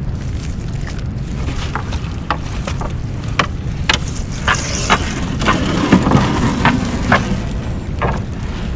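Small fishing boat's engine running steadily, with scattered sharp clicks and knocks from the crab gill net and catch coming aboard as the net is hauled in.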